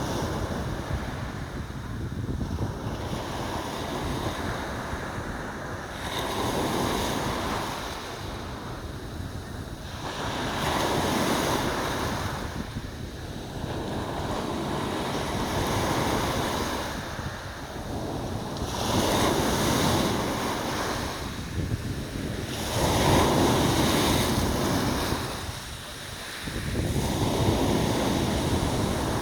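Sea waves breaking and washing on a shore, a fresh surge of surf every four seconds or so over a constant low rumble, with wind buffeting the microphone.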